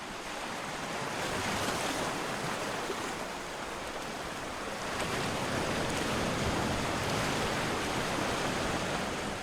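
Sea surf washing in: a steady rushing noise of waves that swells slightly as it goes on.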